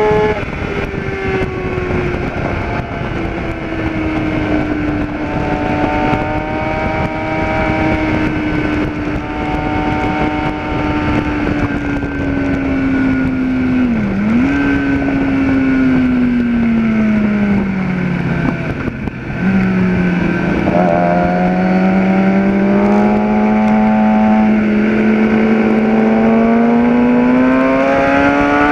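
Kawasaki ZX-10R inline-four engine running hard on a race track, heard on board with wind rush. Its pitch eases down with a quick dip about fourteen seconds in, falls to its lowest a few seconds later, then climbs steadily as the bike accelerates.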